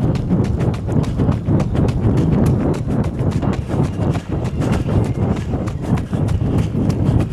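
Quick, regular running footfalls during a hard uphill interval, over a steady low rumble.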